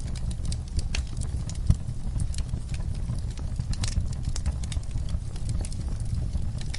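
Fire crackling in a fireplace: irregular sharp pops and snaps over a steady low rumble of the flames, with one louder pop a little under two seconds in.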